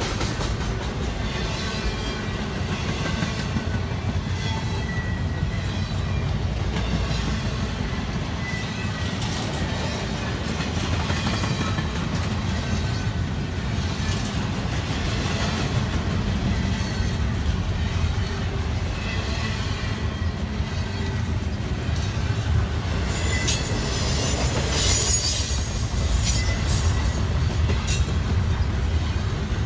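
Norfolk Southern double-stack intermodal freight train's well cars rolling past at close range: a steady rumble of steel wheels on rail, with faint high wheel squeal.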